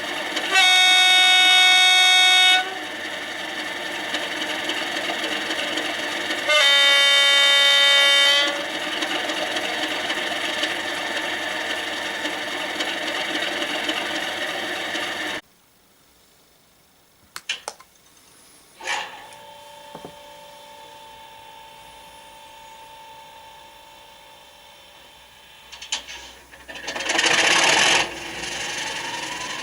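Accurascale Class 37 model locomotive's sound decoder playing diesel engine running sound through its small speaker, with two horn blasts of about two seconds each near the start. About halfway through the engine sound cuts off suddenly. A few clicks and a faint steady hum follow, then a brief loud rush of noise near the end.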